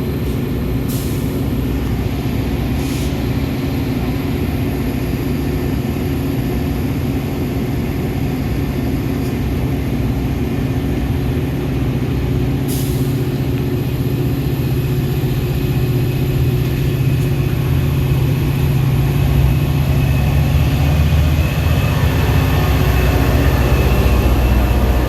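Metra commuter train running, a steady low rumble and hum that grows a little louder over the last few seconds, with a few faint clicks.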